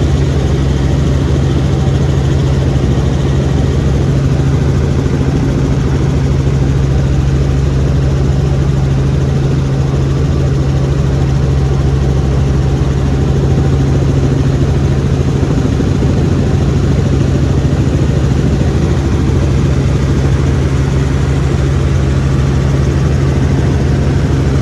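Helicopter engine and rotor noise, a loud steady drone with a strong low hum that does not change.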